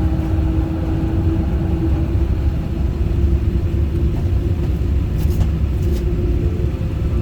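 Airbus A350-1000 cabin noise: a steady low rumble of the airliner with a constant hum running through it, and a couple of faint ticks a little past halfway.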